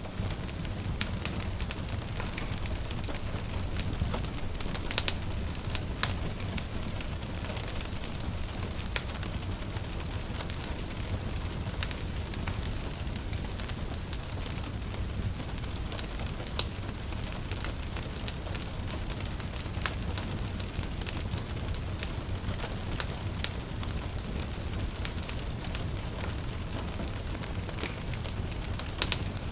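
Wood fire crackling in a fireplace, with frequent sharp pops over a steady low rumble, mixed with the soft patter of gentle rain.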